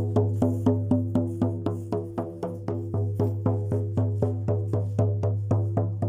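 A hand drum, likely a shaman's frame drum, beaten in a steady fast rhythm of about four to five strikes a second, each stroke ringing with a low resonant boom.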